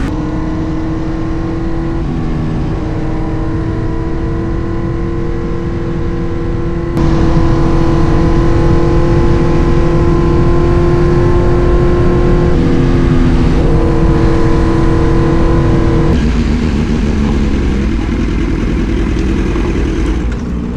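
Kawasaki Z900 inline-four engine under way at steady, slowly rising revs, with heavy wind rush on the microphone. It gets suddenly louder about a third of the way in, and the engine note dips briefly about two-thirds of the way and again near the end as the throttle eases.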